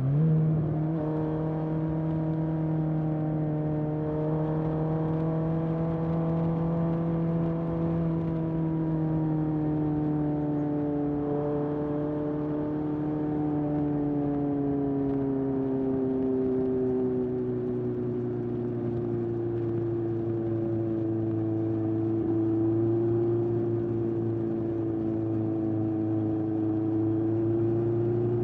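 1981 Honda CB750F's air-cooled inline-four running through a period Yoshimura muffler while riding, the exhaust note steady and slowly falling and rising in pitch with the road speed. Right at the start the pitch jumps up briefly and the sound gets louder.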